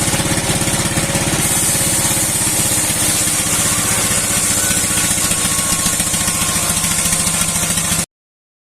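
Old stationary engine, about 60 years old, running steadily at a rapid, even firing beat as it drives a steel wood-cutting saw. A high hiss rises about a second and a half in, and the sound cuts off abruptly near the end.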